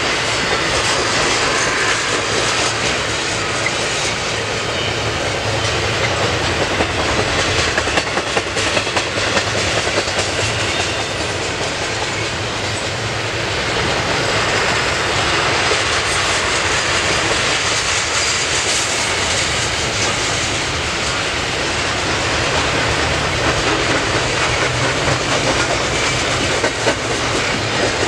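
A CN double-stack intermodal train's container cars rolling past: the steady, loud noise of steel wheels running on the rails.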